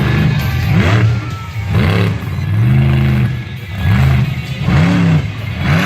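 Monster truck engine being revved hard again and again, its pitch climbing and falling about once a second.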